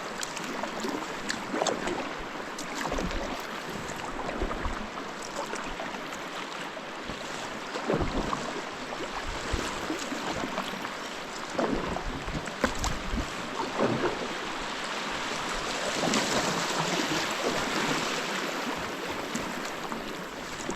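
Kayak paddling on a flowing river: irregular paddle splashes over the steady rush of moving current. The water noise swells for a few seconds in the second half.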